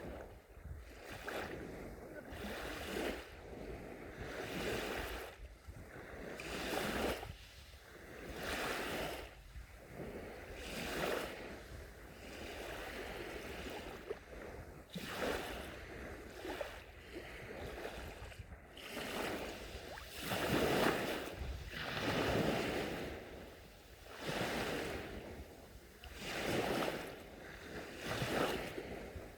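Small sea waves lapping and washing onto the shore, each swell rising and falling away every second or two in an uneven rhythm.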